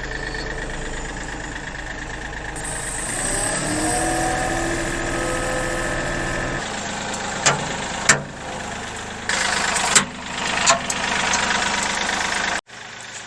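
Kioti CK3510 compact tractor's three-cylinder diesel engine running steadily while the loader bucket is hooked on. Rising tones come in about a third of the way through, and a few sharp clunks follow in the second half.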